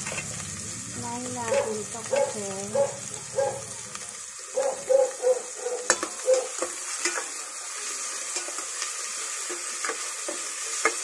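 Chicken livers and hearts sizzling in hot oil with chopped onion and garlic in a pot, stirred with a spatula that scrapes the pot in a run of short strokes during the first half, with a few light knocks.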